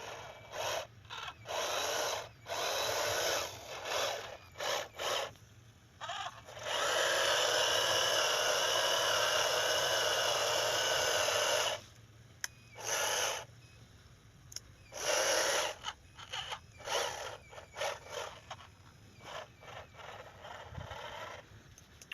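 Small electric gear motors of a homemade RC tractor whirring in short stop-start bursts, with one steady run of about five seconds near the middle.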